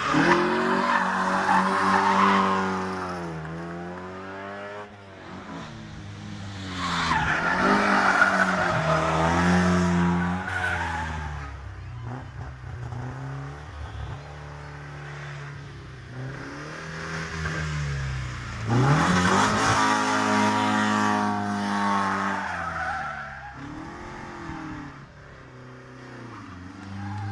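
Rally cars driven hard on a special stage, engines revving and falling back through gear changes, loudest three times: at the start, about eight seconds in, and about twenty seconds in.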